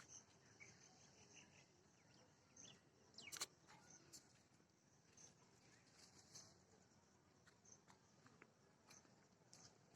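Near silence: faint scattered clicks and faint high chirps, with a brief cluster of sharper clicks about three and a half seconds in.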